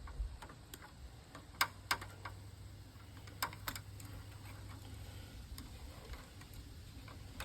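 Scattered light clicks and taps from handling the parts of an old television being stripped for scrap, coming in pairs a few times, over a faint steady low hum.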